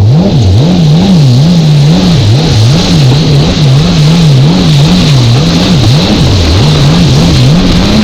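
Stand-up jet ski engine running hard, its pitch rising and falling about twice a second as the throttle and load change, over a steady rush of wind and water.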